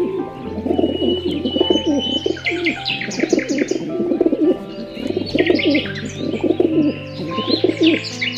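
Birds calling: low, wavering calls repeated throughout, with bursts of higher chirps, over background music.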